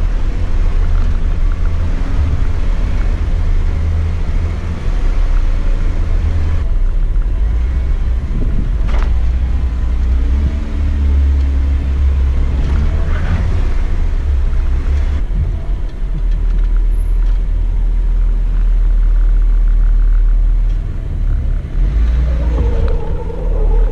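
Jeep engine running at crawling speed off-road, a loud, steady low rumble with small shifts in engine note.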